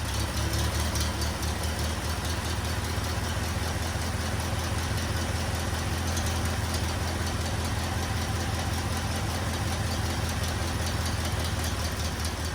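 1924 Fordson F tractor's four-cylinder engine idling with a steady, even beat.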